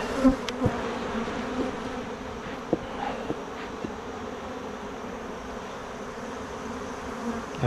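Honeybees buzzing in a steady hum around an opened hive, with a few light clicks in the first four seconds.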